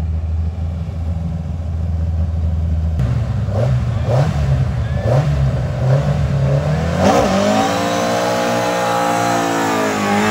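Ford Escort Mk2 rally car's engine idling, then blipped several times about a second apart, then revved up and held at high revs at the stage start line.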